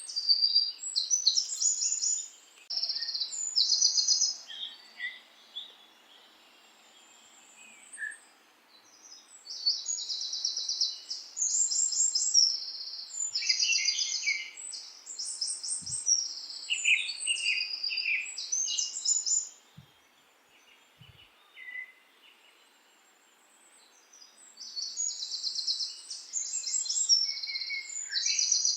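Songbirds chirping and singing rapid, high trills in bursts of repeated short phrases, with two lulls of a few seconds where only a faint steady background hiss remains.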